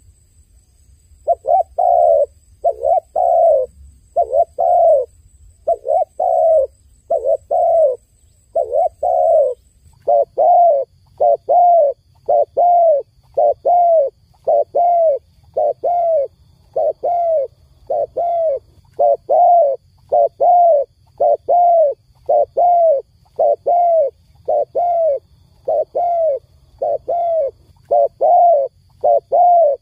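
Dove cooing: short, low coos repeated over and over. They come in pairs with short gaps at first, then from about ten seconds in as a steady run of roughly two coos a second.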